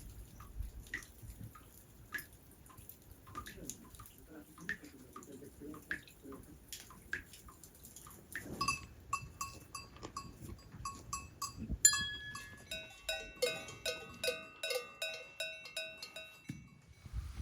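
Cowbells clanking on moving livestock. Sparse knocks come first, then about halfway in a rhythmic ringing of one bell starts, and a few seconds later several bells of different pitch ring together.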